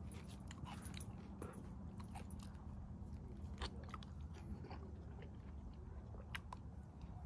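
A person chewing and biting food close to the microphone, with scattered wet mouth clicks and crunches.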